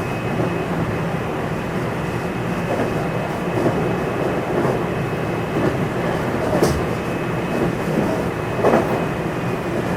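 JR West 227 series electric train (motor car KuMoHa 227-7, Hitachi IGBT VVVF inverter) running along the line, heard inside the car: a steady rumble of wheels on rail with a faint steady high tone, and two sharp clacks over rail joints in the second half.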